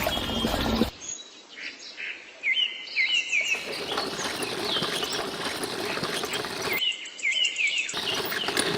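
Small birds chirping repeatedly in short, high calls, broken off and restarting abruptly several times. Louder bursts of broad noise come in the first second and again near the end.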